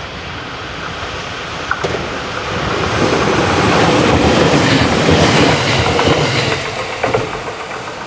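JR West 521 series electric multiple unit approaching and running past. The rumble of wheels on rail swells to its loudest about four to five seconds in and then fades, with a few sharp clicks of the wheels over rail joints.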